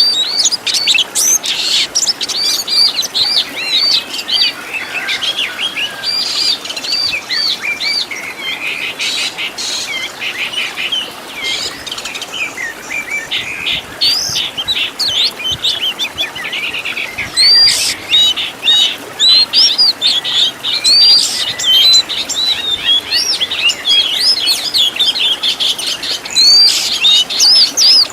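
Oriental magpie-robin (kacer) singing a continuous, varied song of quickly repeated high chirps and whistled notes, delivered in rapid runs.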